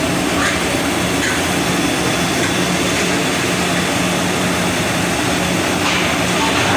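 Steady, loud rushing noise with a faint low hum, unchanging throughout.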